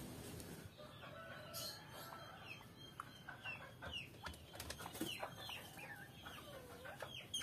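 Faint bird chirps: many short calls falling in pitch, at irregular intervals, with a few soft clicks.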